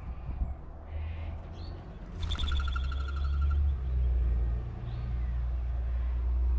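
Bird calls outdoors: about two seconds in, a bird gives one buzzy, pulsed call lasting about a second and a half, with a few faint short chirps around it. A steady low rumble runs underneath.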